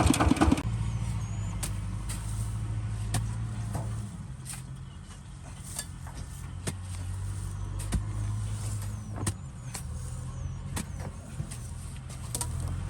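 Kubota ZT155 DI single-cylinder diesel engine of a two-wheel hand tractor running steadily under way, a low even hum that eases a little about four seconds in and picks up again. Sharp knocks and clanks come now and then.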